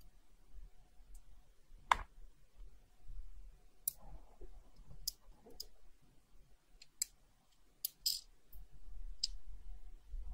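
Scattered light, sharp clicks and taps of small tools handling watch parts, about eight in ten seconds, the sharpest about two seconds in.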